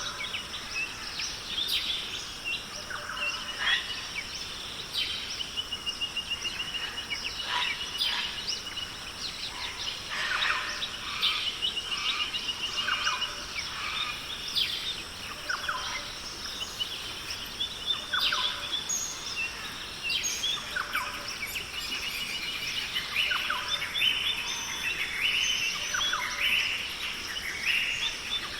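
Many birds calling and chirping at once, with several rapid trills, over a steady high-pitched drone: a forest dawn-chorus-like soundscape.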